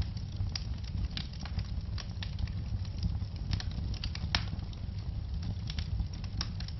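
Wood fire burning in a fireplace: a steady low rumble of flames with irregular sharp crackles and pops, the loudest pop a little past four seconds in.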